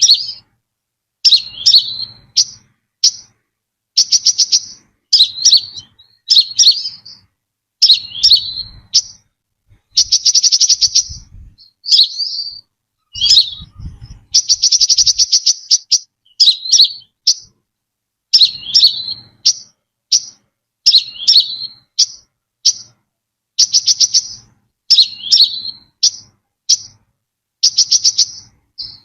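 Brown-throated sunbird singing: repeated phrases of short, high chirps that swoop downward, broken every few seconds by a fast buzzing trill about a second long.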